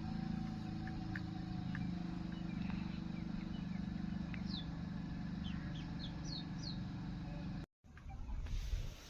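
A steady low hum, with a few short, high chirps of small birds in the middle and a few faint clicks. The sound cuts out for a moment near the end.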